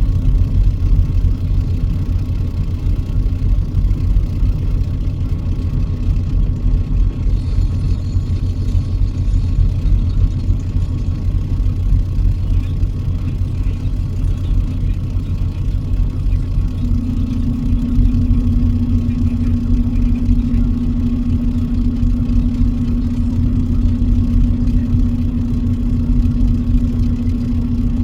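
Truck engine running steadily with a low rumble. About two-thirds of the way through, a steady low hum comes in and holds to the end.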